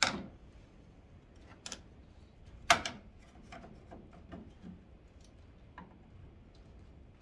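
Sharp clicks and knocks of a hand tool working at a stripped screw in the headlight trim, with a few loud ones in the first three seconds (the loudest near three seconds in), then lighter scattered ticks.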